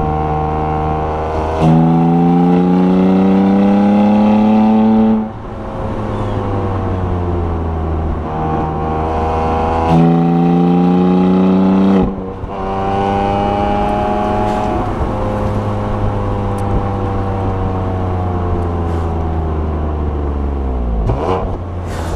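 2016 BMW F80 M3's twin-turbo straight-six pulling hard, its pitch climbing for about three seconds and then dropping away suddenly. A second, shorter climb ends the same way, and afterwards the engine note falls slowly. Near the end comes a quick rev blip.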